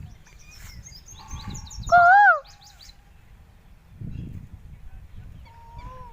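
A bird's loud call about two seconds in: a single note that rises and then falls, lasting about half a second. Small birds chirp high around it, and a fainter, level call comes near the end.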